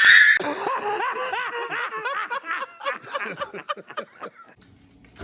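A scream cuts off at the start, then a person laughs in quick, repeated high bursts that gradually fade out about four and a half seconds in.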